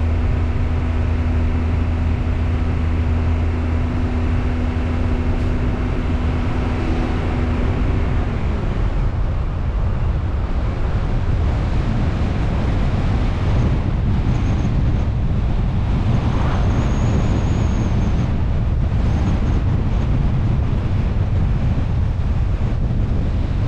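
Car driving, with engine hum and tyre-on-road rumble. A steady engine drone stops about eight seconds in, leaving a low, even road rumble.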